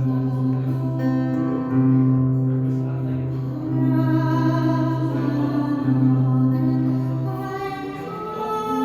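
Live music: a woman singing a slow ballad over a sustained accompaniment, with long held notes that change about every two seconds.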